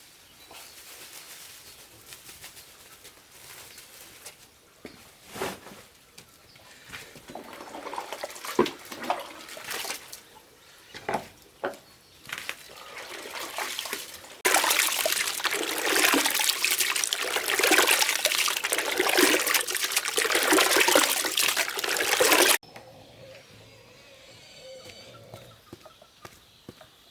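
Water splashing and pouring in uneven bursts, then a loud stretch of steadily rushing water that starts and stops abruptly, followed by quieter faint sounds.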